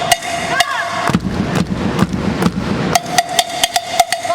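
Live percussion: sharp, irregular strikes on hard drums or wooden surfaces, a quick run of them near the end, over a steady held tone that drops out for a couple of seconds in the middle.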